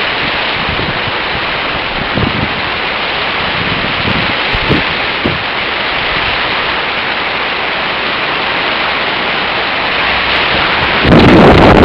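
Typhoon wind and heavy rain making a loud, steady rush, with gusts buffeting the microphone in low thumps. A stronger gust hits about eleven seconds in.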